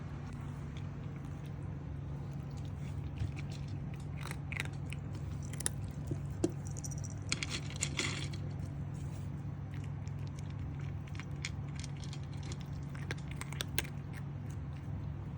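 A cat chewing and eating, with scattered small clicks and crunches, a denser patch of them about halfway through, over a steady low hum.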